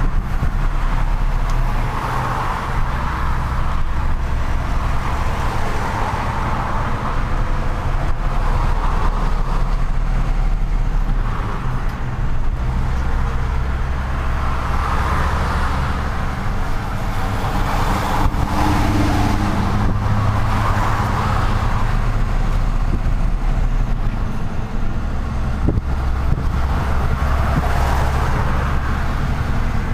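Truck engine running while driving in city traffic, with steady road noise; the engine note shifts up and down several times as it speeds up and slows.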